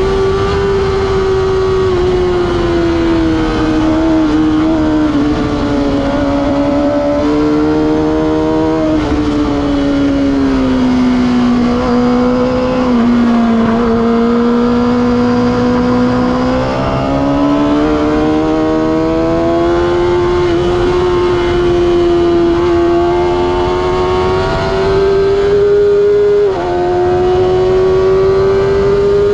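Kawasaki ZX-6R inline-four sport-bike engine running hard at high revs. The revs ease down to a low point about halfway through, then climb again, with a sudden drop in pitch near the end like an upshift.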